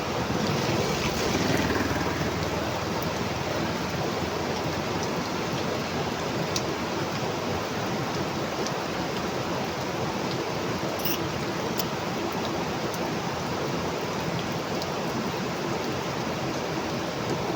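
Heavy rain falling steadily, swelling briefly about a second in, with a few faint ticks here and there.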